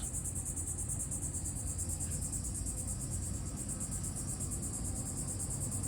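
Crickets chirping in a continuous high, rapidly pulsing trill over a low steady rumble.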